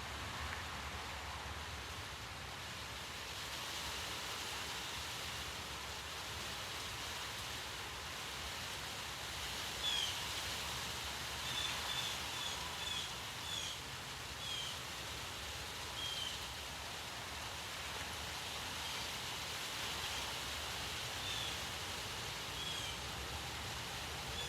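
Steady outdoor hiss with a bird giving short, high chirps, about a dozen, scattered through the second half.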